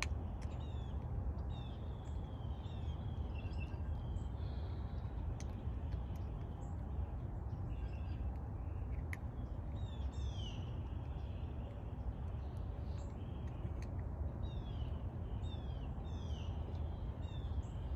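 Birds chirping repeatedly outdoors: runs of short, high calls that each drop in pitch, over a steady low rumble.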